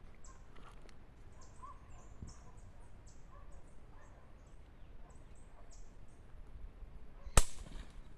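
Small birds chirping, many short high calls throughout. About seven seconds in comes a single sharp crack, the loudest sound, with a brief ring after it.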